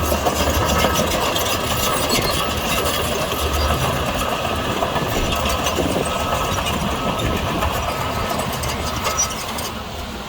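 Heavy diesel engine of earthmoving machinery running steadily, with a thin whine that comes and goes.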